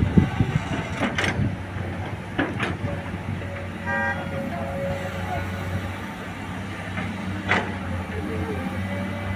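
Heavy truck diesel engine running steadily, with a few sharp knocks and a brief horn toot about four seconds in.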